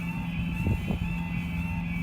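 Diesel train standing at idle: a steady low engine hum with a steady high whistle over it, and a couple of light knocks a little under a second in.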